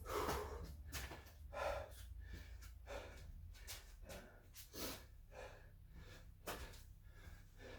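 A man breathing hard, a run of faint repeated breaths and gasps about every second or so as he catches his breath after exertion.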